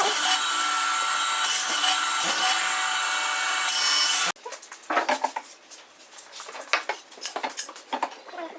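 A power tool running steadily while cutting wood, with a dense rasping noise and a steady whine. It stops abruptly about four seconds in, giving way to quieter scattered clicks and scraping from handling wood and tools.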